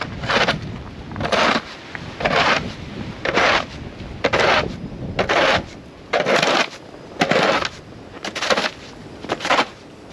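Snow crunching or scraping in short, even strokes, about once a second.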